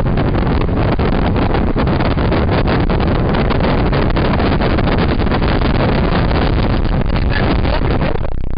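Pickup truck driving off fast, a loud rush of road and wind noise inside the cab with rapid buffeting on the microphone; it cuts off abruptly near the end.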